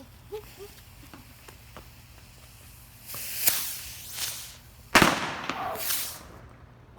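Small consumer fireworks going off. About three seconds in comes a hissing burst with one sharp crack, then a sudden loud bang at about five seconds, trailing into a second or so of hissing and crackle.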